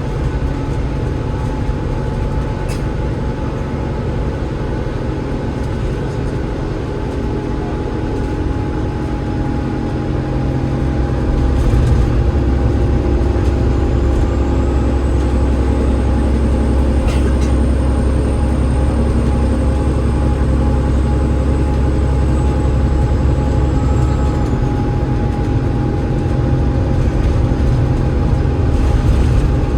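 Cummins ISL8.9 straight-six diesel and ZF EcoLife six-speed automatic gearbox of an Alexander Dennis Enviro500 MMC double-decker bus under way, heard from on board. The low engine note grows louder and heavier about twelve seconds in, holds, and eases off about twenty-four seconds in, with a thin high whine over that same stretch and a steady mid-pitched tone throughout.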